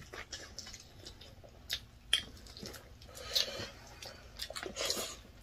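Mouth sounds of people eating rice and chicken with their hands: chewing, wet lip smacks and short clicks, with the loudest smack about two seconds in.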